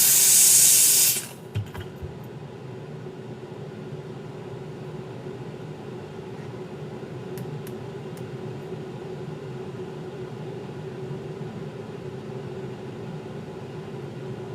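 A loud, high hiss that cuts off suddenly about a second in. Then a steady hum with a faint held tone, and a few faint clicks.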